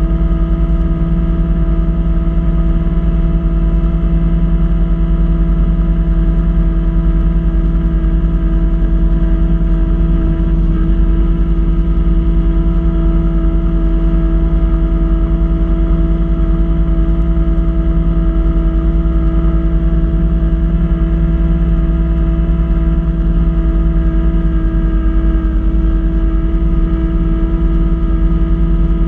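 Kubota B2650 tractor's three-cylinder diesel engine running steadily at constant working speed, driving its front-mount snow blower, with no change in pitch or level.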